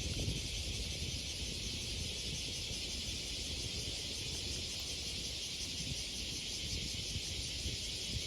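Steady high-pitched insect chorus, with a fluctuating low rumble underneath.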